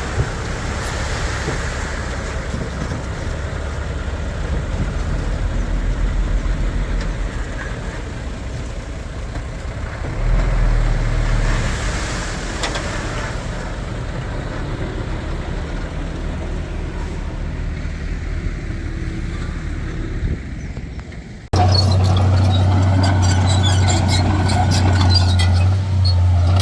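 Diesel engines of heavy earthmoving machinery running with a steady low rumble. About 21 seconds in, the sound cuts abruptly to a closer, louder engine with a steady low hum and scattered metallic clinks.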